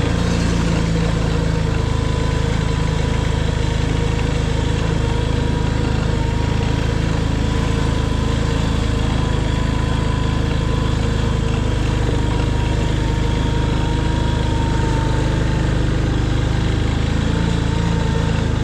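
Small off-road vehicle's engine running steadily as it drives along, with a thin steady whine above the engine drone.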